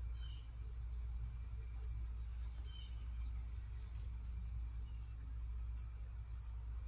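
A steady, high-pitched chorus of chirring insects, such as crickets, over a low hum, with a few faint short chirps.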